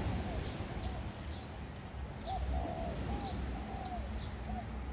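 Birds calling: a string of short, arched cooing notes mixed with brief high chirps, repeating about once a second, over a low steady rumble.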